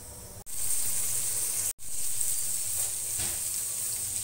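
Soaked chickpeas frying in oil and spice masala in a pressure cooker: a steady sizzle, stirred with a wooden spoon. The sizzle grows louder about half a second in and breaks off for an instant near the middle.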